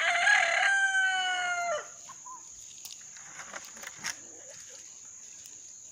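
A rooster crowing: one long call that ends about two seconds in, followed by a few faint knocks.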